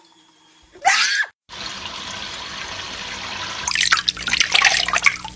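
A short, loud squawk about a second in, then running water hissing steadily, turning to loud, choppy splashing a little past halfway, as a pet bird bathes under the spray.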